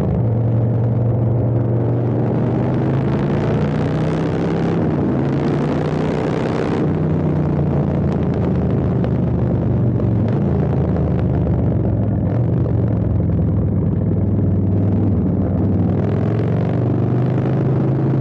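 Custom Harley-Davidson Street Bob's V-twin engine, with Stage 2 tuning and an Arlen Ness air intake, running steadily with a deep, even note.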